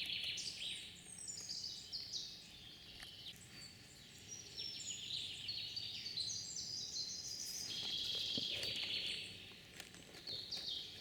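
Songbirds singing: several overlapping high chirping and trilling songs that continue without a break.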